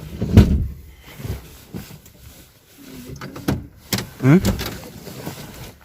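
Thumps and knocks inside a car: a loud dull thump about half a second in, a sharp knock a few seconds later, then another thump with a short rising vocal sound.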